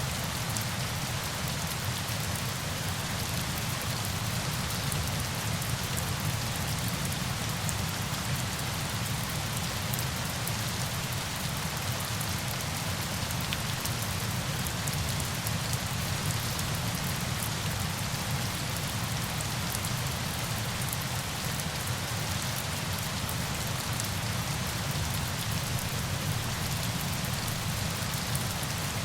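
Steady falling water: an even hiss with a low rumble underneath and a fine patter of drops, unchanging throughout.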